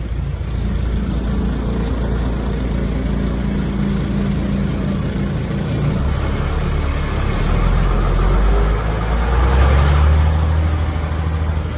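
Renault Camiva fire truck's engine running steadily, growing louder from about seven seconds in to a peak near the end.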